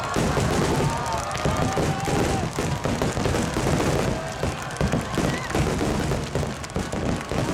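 A large aerial fireworks barrage: many shells bursting in rapid, overlapping booms and crackles with no pause between them.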